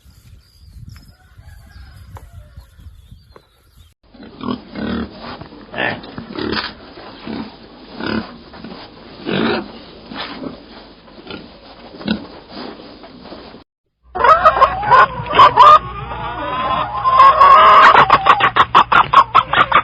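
Pigs grunting in short, repeated low grunts, then after a cut a much louder flock of chickens clucking and squawking, with many calls overlapping.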